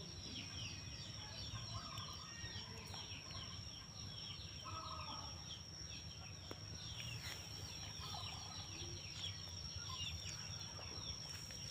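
Birds calling: many small birds chirping densely, with a few short lower calls mixed in, over a steady high-pitched whine.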